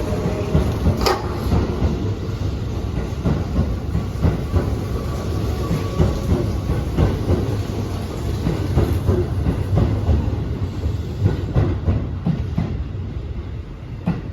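Keihan 1000 series electric train running on the line, its wheels knocking over rail joints in a clatter over a steady rumble, with a faint whine in the first few seconds. The sound drops away near the end as the train recedes.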